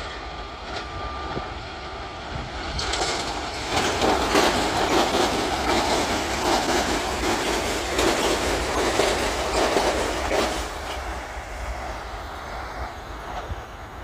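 Long Island Rail Road commuter train going past on the main line, its wheels clicking over the rail joints. It builds about three seconds in, is loudest for about six seconds, then fades away.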